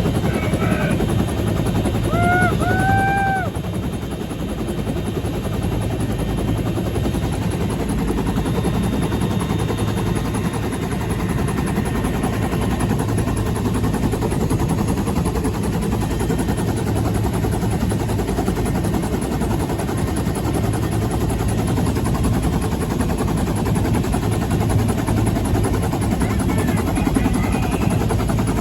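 Steady, fast chop of a UH-1H Huey's two-bladed main rotor over the whine of its turbine engine, heard loud from inside the helicopter in flight.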